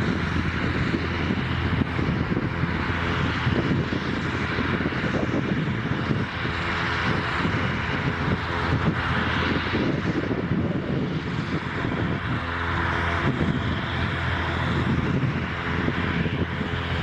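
Jet airliner engines running: a steady rushing noise over a low hum, swelling and easing gently.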